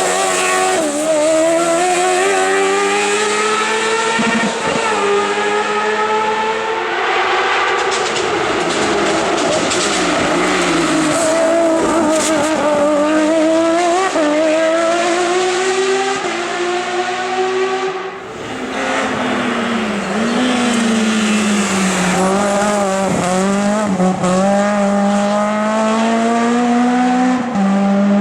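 Race car engines accelerating hard up a hill climb course, the pitch rising through each gear and dropping at every upshift, over and over. About 18 seconds in the sound briefly dips, and an engine then runs at a lower, steadier pitch with small wavers.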